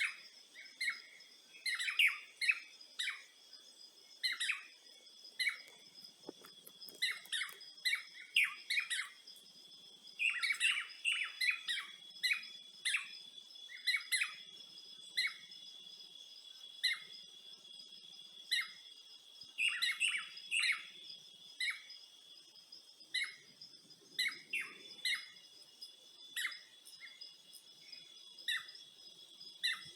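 Birds chirping in short, repeated calls over a steady high insect trill.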